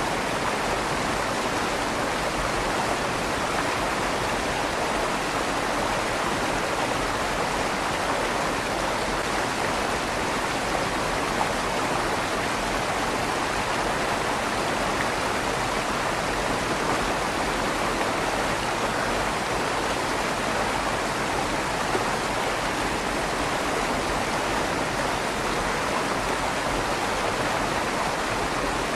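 River water flowing steadily under a stone bridge, a continuous rushing with a slight echo off the inside of the stone tunnel.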